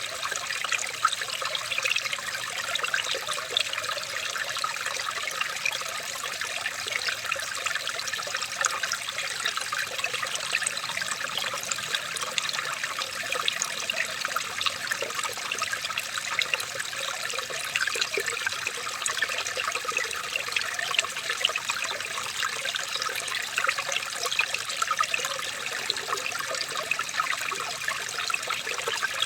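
Water trickling and splashing steadily over stones in a small stream, a dense patter of small splashes with no change over the whole stretch.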